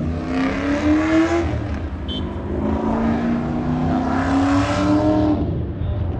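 Drag car's engine accelerating hard, its note climbing, dropping back at an upshift about a second and a half in, then climbing again for a few seconds before fading near the end.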